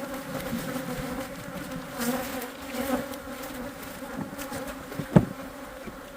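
A cloud of stirred-up Saskatraz honey bees buzzing around an opened hive, a steady hum. A single sharp knock about five seconds in.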